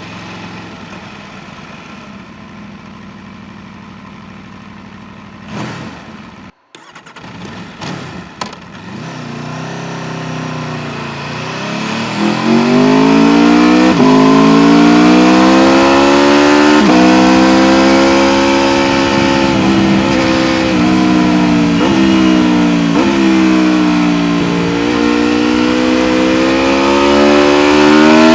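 Aprilia RSV4 1100 Factory's V4 engine running quietly at low revs, then, after a few brief sounds and a short dropout about six seconds in, pulling away and accelerating hard. The pitch climbs and drops abruptly at several quick upshifts in a row, then keeps rising and falling with the throttle, with the revs climbing again near the end.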